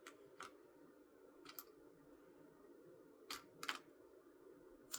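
Plastic LEGO pieces clicking as they are handled and pressed into place: several short, faint clicks, some in quick pairs.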